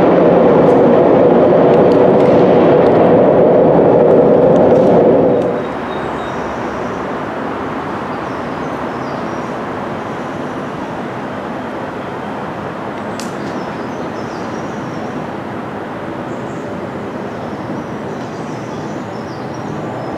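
Loud, steady rumble of an underground train echoing through a deep-level tube tunnel, cut off abruptly about five seconds in. It gives way to a quieter, even background rumble with a few faint high chirps.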